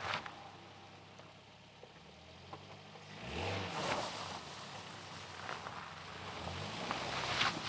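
A vehicle engine running at low pitch, revving up about three seconds in and then rising and falling, with a few short sharp knocks over it.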